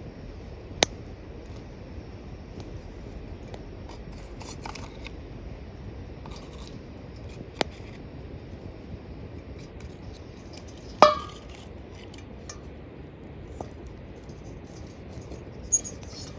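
Five sparse sharp clicks over a steady low hiss. The loudest, about eleven seconds in, rings briefly like struck metal.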